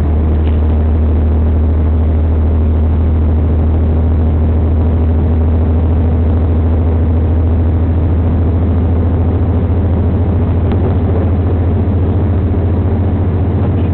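Steady low hum and running noise of a diesel passenger train moving at speed, heard from inside the carriage.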